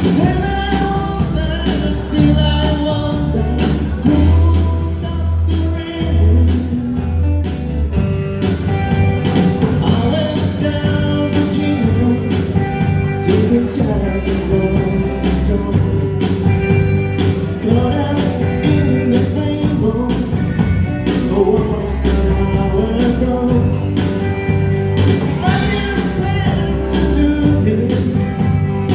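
Rock band playing live: a man singing over electric guitars, bass guitar and a drum kit keeping a steady beat.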